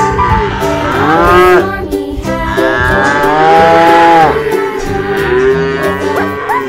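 Cattle mooing: long, drawn-out calls, two of them loudest, with background music playing underneath.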